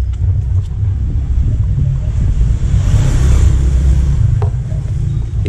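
Wind buffeting the microphone: a loud, uneven low rumble, with a rushing swell of noise about three seconds in.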